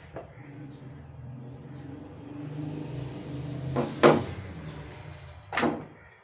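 Two sharp knocks, about four and five and a half seconds in, over a steady low hum.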